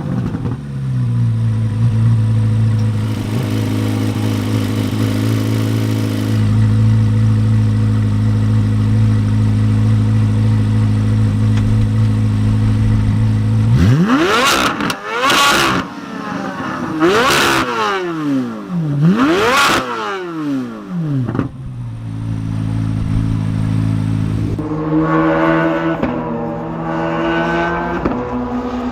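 Chevrolet Corvette C8 Z06's 5.5-litre flat-plane-crank V8 idling steadily, then revved sharply three times in quick succession, each rev climbing and dropping straight back, before settling back to idle.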